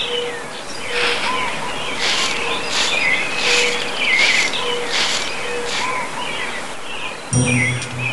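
Birds chirping over a steady outdoor hiss: short, high calls that sweep downward and repeat a little more than once a second. Music comes in near the end.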